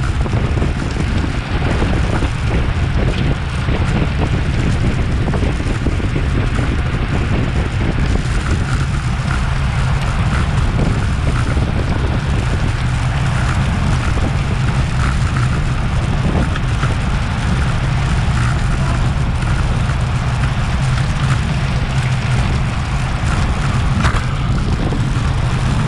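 Steady wind rush buffeting the microphone of an action camera on a road bike ridden at race speed, with a constant low rumble of tyres on the road.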